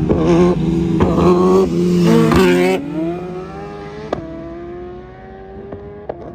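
Sport-bike engine blipped three times in quick succession, then running steadier and quieter with its pitch creeping slowly upward.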